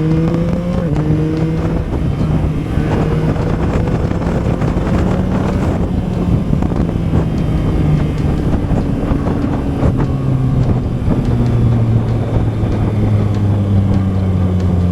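Yamaha MT-09's three-cylinder engine, fitted with an Akrapovič exhaust, pulling hard: its pitch climbs in steps through gear changes over the first six seconds, then settles lower and steadier. Wind rushes over the microphone throughout.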